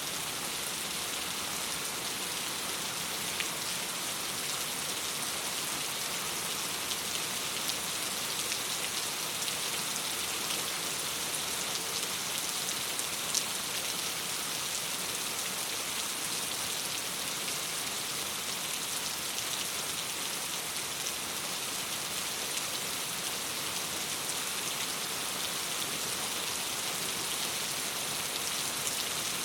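Steady rain, an even dense hiss with no let-up, with a couple of faint sharp ticks in it.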